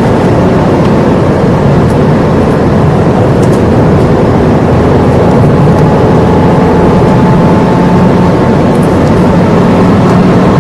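Inside a Ford Fiesta's cabin while driving: steady engine hum under road and tyre noise.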